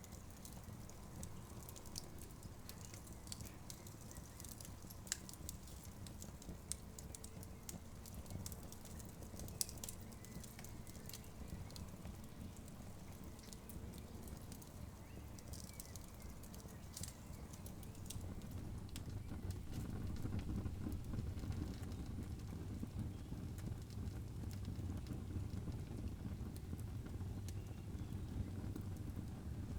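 Campfire crackling, with scattered sharp pops and snaps over a steady low rumble that grows louder about two-thirds of the way through.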